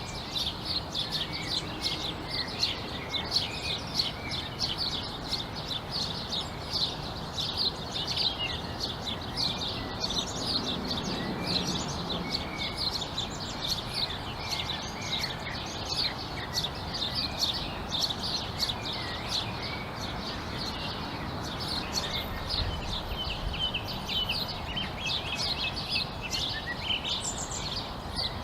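A dense chorus of small birds chirping, many short high chirps a second overlapping without pause, over a steady low background noise.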